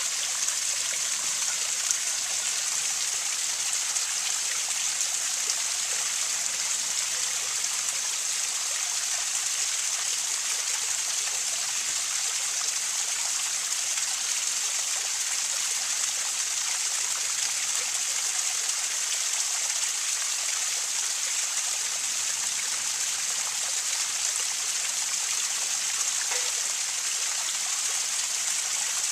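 Small waterfall splashing steadily, a constant, even hiss of falling and running water.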